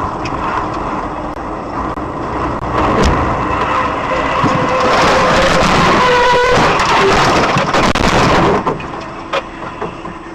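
Semi-truck crash: road and engine noise with a sharp crack about three seconds in, then a long, loud stretch of grinding crash noise that drops away suddenly near the end.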